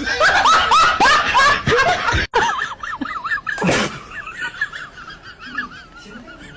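A person laughing hard in quick repeated bursts, cut off abruptly about two seconds in. A quieter, high, rapidly wavering sound follows.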